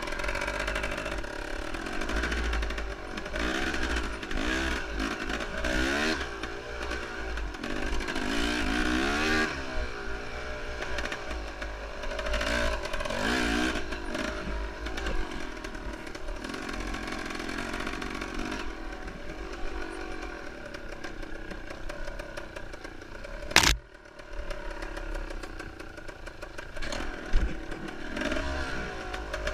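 Enduro motorcycle engine revving up and down over and over as the bike is ridden, with one sharp knock about 23 seconds in.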